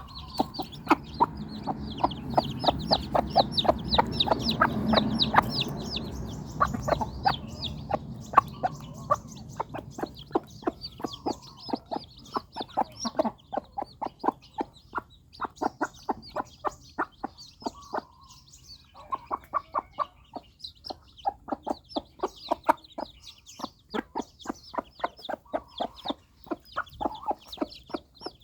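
Newly hatched chicks peeping in a dense stream of short, high calls, mixed with many quick sharp ticks.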